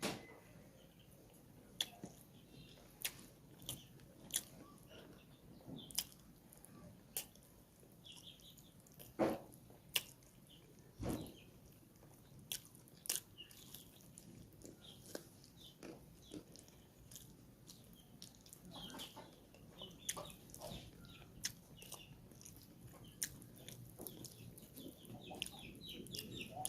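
Close-up eating sounds: a person biting and chewing chicken curry with rice, with scattered sharp mouth clicks and smacks at irregular intervals.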